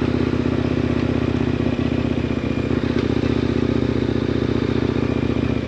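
2018 KTM 1090 Adventure R's 1,050 cc V-twin engine running at an even speed as the bike cruises, its pitch holding steady.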